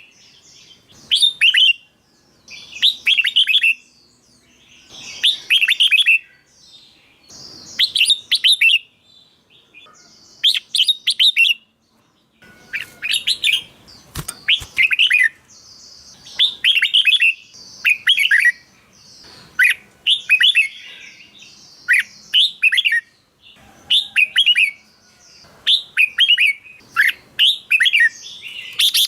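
Red-whiskered bulbul singing loud, short phrases of quick notes, many sweeping downward in pitch, repeated every couple of seconds.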